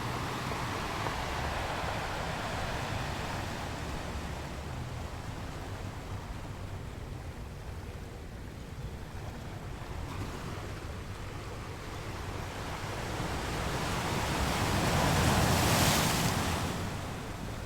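Steady outdoor rushing noise of wind, swelling to its loudest near the end and then easing off.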